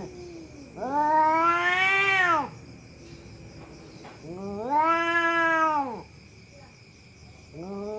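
Domestic cat yowling: long drawn-out wails, each about one and a half to two seconds, rising and then falling in pitch. Two full wails, and a third begins near the end.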